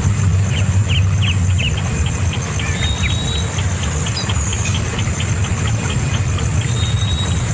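A bird calling in short high pips, a few quick downward-sweeping notes at first, then a steady run of about three or four pips a second, over a constant low rumble.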